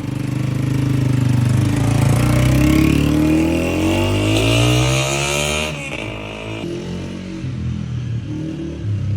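Honda 125 motorcycle's single-cylinder four-stroke engine revved up, its pitch rising steadily for several seconds; a little past the middle the throttle is released and it drops suddenly back to a steady idle.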